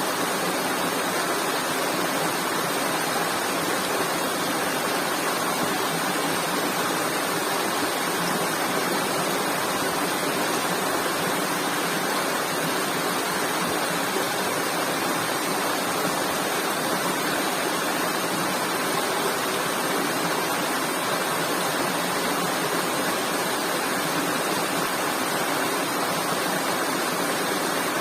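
Steady, even rushing noise with no breaks or changes, spread from low to very high pitches.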